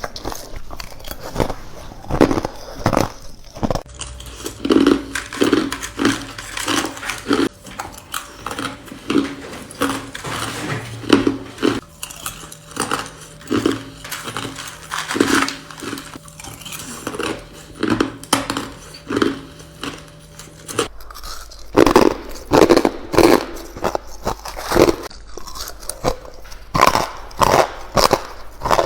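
A person biting and crunching ice with the teeth: crisp, irregular crunches several times a second, with short pauses between runs of bites.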